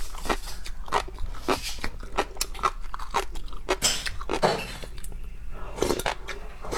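A person eating close to the microphone: irregular crunching, biting and chewing, several sharp crunches a second over a low steady hum.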